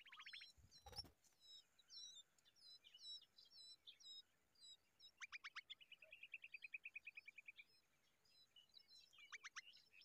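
Faint chirping of small birds: scattered short high chirps, then a fast run of repeated notes from about five to eight seconds in. A single dull thump about a second in.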